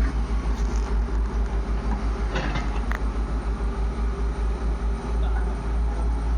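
Heavy diesel engine running steadily with an even, fast low throb.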